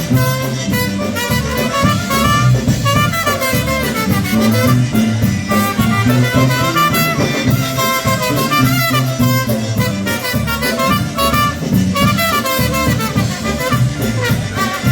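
Live polka band playing an instrumental passage of a Polish polka, with horns carrying the melody over a steady bouncing beat of bass and drums.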